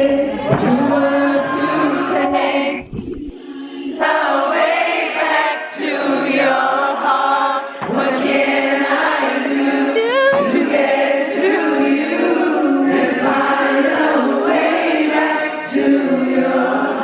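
Several voices singing together a cappella in sustained harmony, with no instruments. The singing thins briefly about three seconds in, then carries on.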